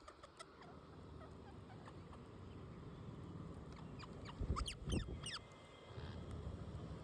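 Pet parrots chirping in short, high squeaky calls, with a quick flurry of chirps and a couple of low thumps about four and a half to five and a half seconds in.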